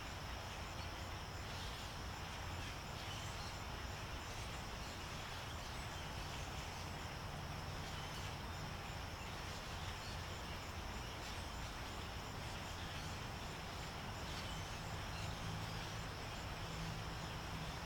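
Outdoor ambience: a steady high insect drone with faint, scattered calls from migrating birds passing overhead, over a low steady hum.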